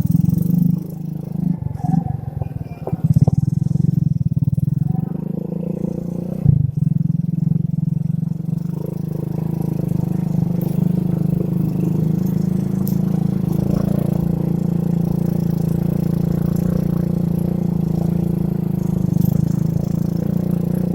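Motorcycle engine running steadily at cruising speed under a ride, heard muffled through a phone carried in a shirt pocket. In the first several seconds there is cloth rubbing over the phone and a couple of bumps, and after that the engine hum runs on evenly.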